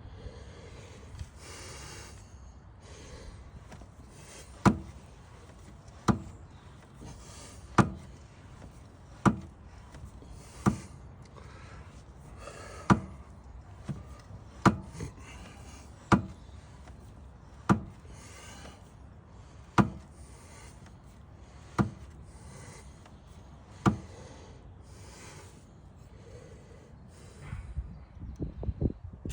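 A dozen sharp knocks, one every one and a half to two seconds, with rubbing or scraping sounds between them.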